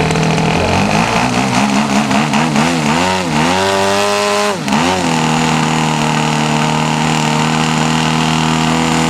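Small model aircraft engine running loud and close. It is throttled up and down in quick blips about twice a second, then revs up to a higher held pitch, drops sharply for a moment and climbs back, then settles into a steady run.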